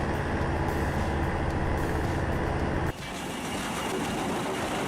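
A heavy diesel engine running steadily with a deep hum, cut off abruptly about three seconds in by a different, noisier machine sound with less low rumble.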